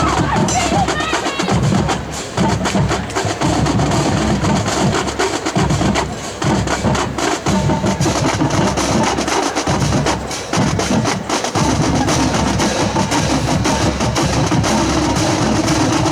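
Marching band drumline playing a cadence: snare and bass drums beating a steady, driving rhythm with sharp stick clicks.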